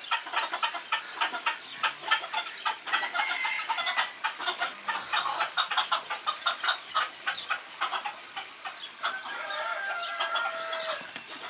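A flock of chickens clucking continuously in rapid, overlapping short calls, with one longer drawn-out pitched call near the end.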